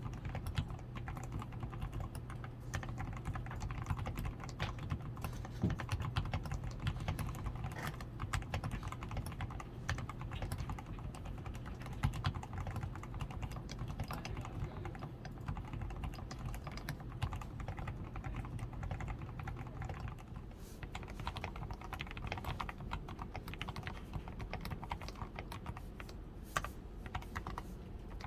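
Continuous typing on a DAREU A87 Pro mechanical keyboard that is fully lubed with Krytox 105 and has a tape-modded PCB, foam-padded switches and XDA keycaps: a dense, unbroken stream of key clacks. A low background hum stops about two-thirds of the way through.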